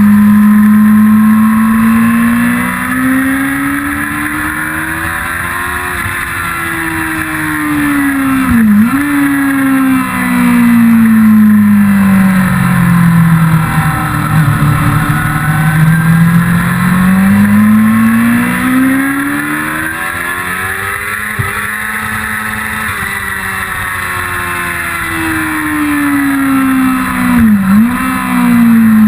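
A 1999 Yamaha YZF-R6's inline-four engine under way, its pitch slowly rising and falling as the bike accelerates and slows. Twice the note drops sharply for an instant and recovers, as at a gear change.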